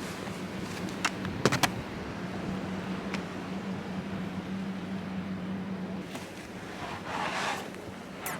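A vehicle engine running steadily outside in deep snow; its hum stops about six seconds in. A few sharp knocks come just over a second in, and there is a short rush of noise near the end.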